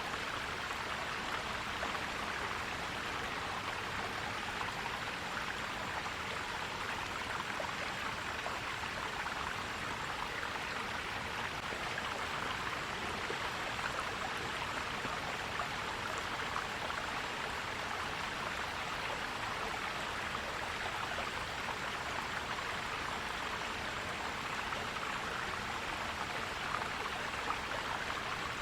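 Stream water flowing and gurgling over rocks, a steady, even rush.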